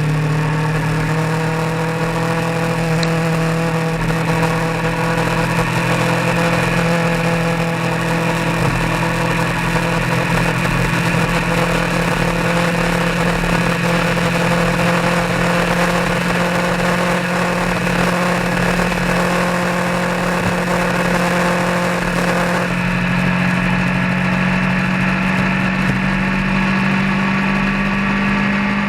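A vehicle engine running steadily while driving on the road, with a steady hum of road and wind noise beneath. Its pitch holds level, changes character about 23 seconds in, and then rises slightly near the end.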